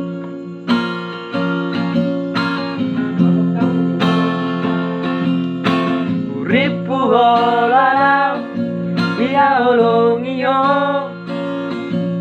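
Acoustic guitar strumming chords, joined about halfway through by a solo voice singing a wavering, wordless melodic line.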